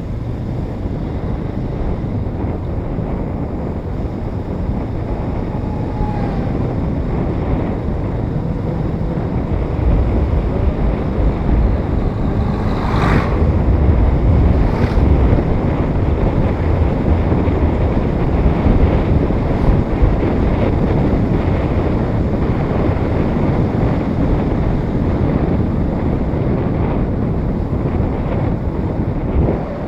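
Wind buffeting the microphone of a moving motorcycle, with the bike's engine and road noise rumbling underneath. The rumble grows louder about ten seconds in, and two brief sharp sounds come near the middle.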